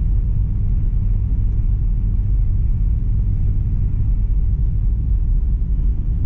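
1997 Mazda Miata driving on a snow-covered road: a steady low rumble of engine and road noise heard from inside the car.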